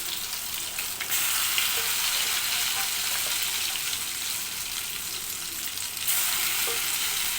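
Chicken 65 pieces, coated in an egg-and-spice batter, deep-frying in hot oil with a steady sizzle. The sizzle grows louder about a second in and again near six seconds.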